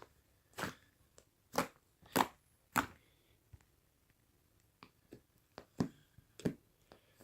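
Pink clay slime being squished and pressed, giving a series of sharp pops and crackles: four loud ones in the first three seconds, a short lull, then quicker, softer clicks with two louder pops near the end.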